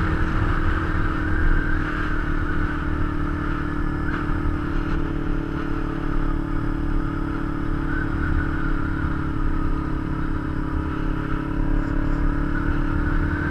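Kawasaki Ninja 250's parallel-twin engine running at a steady cruise as the motorcycle rides along, with wind rumbling on the bike-mounted microphone.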